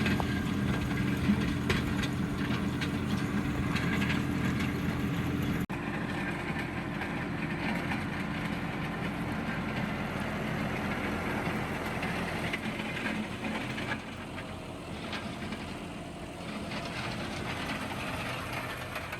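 John Deere tractor engine running steadily. About six seconds in the sound cuts abruptly to a fainter, noisier engine sound.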